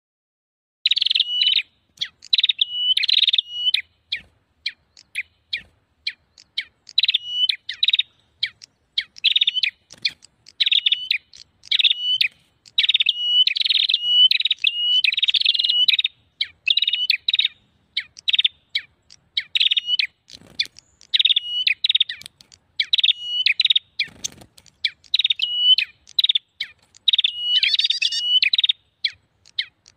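Prenjak warbler calling in a lure-call recording: rapid runs of sharp, high chirps in bursts of about a second, repeated over and over with short gaps.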